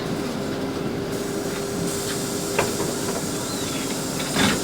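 LiAZ 5292.65 city bus heard from inside the passenger cabin while driving: steady drivetrain and road noise with a constant whine. There is a faint click partway through and a louder rattle near the end.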